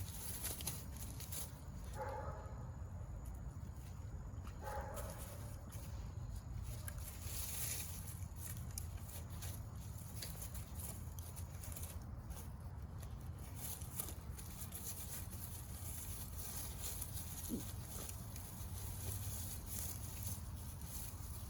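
Golden retriever puppies playing with a branch: two short puppy yips or growls about two and five seconds in, then scattered rustling and light cracks of the branch over a steady low rumble.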